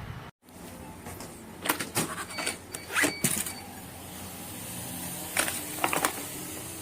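A small electric motor hums steadily, with several sharp clicks and knocks over it.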